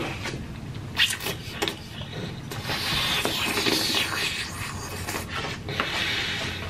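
Close-up chewing and wet mouth sounds of pasta being eaten, with a few sharp clicks of metal forks against plastic takeout trays, the first about a second in.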